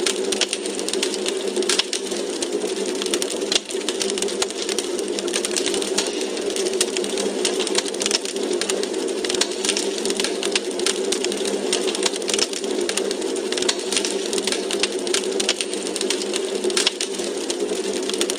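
Wood fire crackling in a fireplace: many sharp, irregular pops and snaps over a steady low rushing noise.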